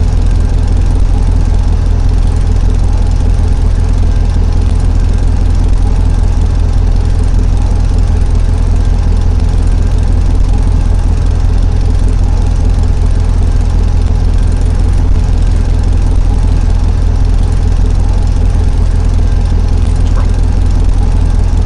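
Tractor engine running steadily, a loud, even low rumble that holds unchanged throughout.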